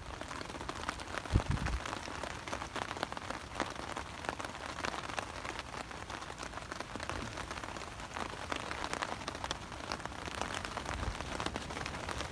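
Heavy rain pattering on a tarp overhead, a dense, even stream of drop hits, with one low thump about a second and a half in.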